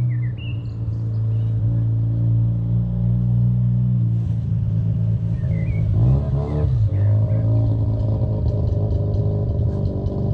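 Mazda RX-7 FC's 13B turbo rotary engine idling, with one short rev that rises and falls about six seconds in. Birds chirp over it now and then.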